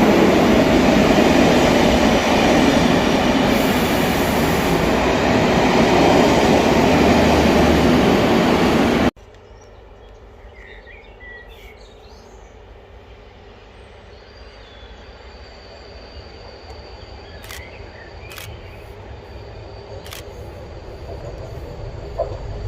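Class 73 locomotive-hauled test train passing close by: a loud, dense rumble of wheels and locomotive noise for about nine seconds, ending in an abrupt cut. After the cut it is much quieter, with a few bird chirps and a low rumble that slowly grows louder as the train approaches.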